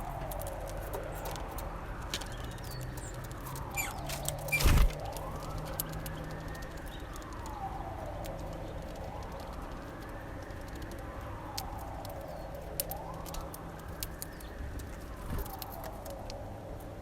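A distant emergency-vehicle siren wailing, its pitch sweeping up and down about every two and a half seconds, over a steady low hum. Scattered sharp clicks, with one loud thump about five seconds in.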